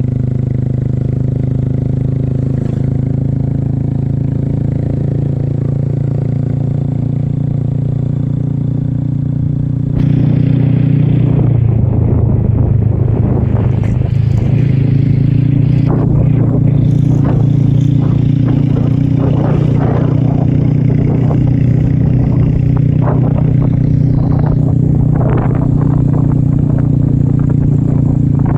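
Motorcycle engine running steadily while riding, louder from about ten seconds in. Scattered rattles and knocks sound over it from a little after that.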